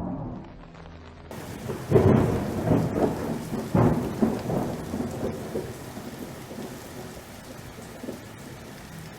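Thunder rolling in a rainstorm: a loud crack about two seconds in, then further rumbling peaks that fade away over the next few seconds, over a steady hiss of rain.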